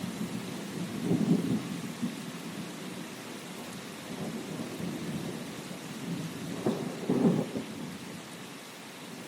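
Steady rain with rolling thunder: low rumbles swell about a second in and again around seven seconds, over an even hiss of rainfall.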